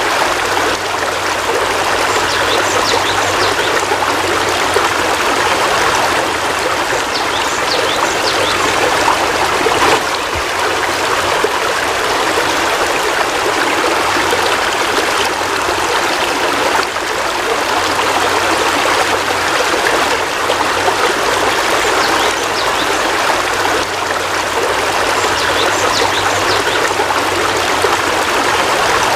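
Heavy rain falling steadily: a dense, even hiss with scattered sharper drop sounds.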